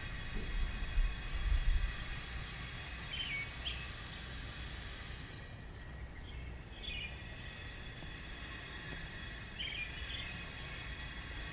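Outdoor ambience: a steady low rumble, stronger for the first couple of seconds, with short bird chirps heard three times, each a quick pair of notes.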